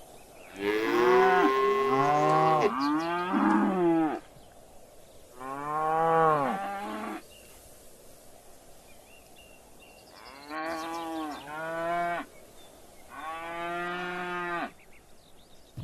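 Cattle mooing: several long, drawn-out moos, some overlapping, for the first four seconds, then single moos about 6, 11 and 14 seconds in.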